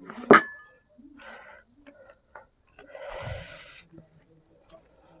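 A sharp clink of a utensil against a dish, with a short ring, then soft handling clicks and a breathy, hissing sound about three seconds in.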